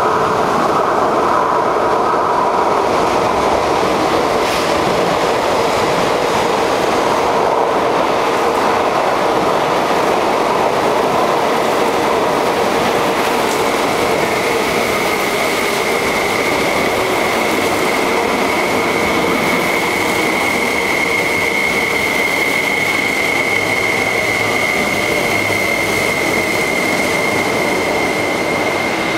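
MTR East Rail Line electric multiple-unit train running into an underground station platform: a loud, steady rumble with a whine, and a steady high-pitched squeal joining about halfway through. The sound echoes in the enclosed platform.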